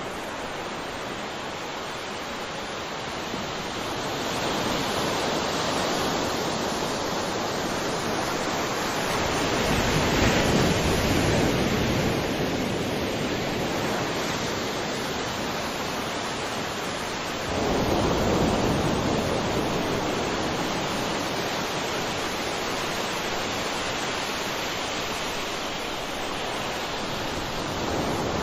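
Sea waves washing onto a shore: a continuous rush of surf that swells as each wave comes in, with a big surge about ten seconds in and another arriving suddenly at about eighteen seconds.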